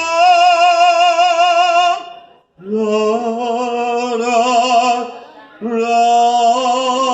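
A male singer holding long sung notes with heavy vibrato, three sustained notes with short breaths between them, the low accompaniment dropped out underneath: the drawn-out closing "tarararara" of a Spanish-language ballad.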